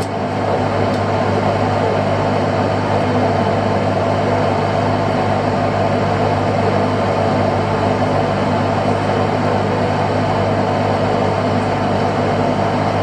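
Fishing boat's engine running steadily, a constant loud drone.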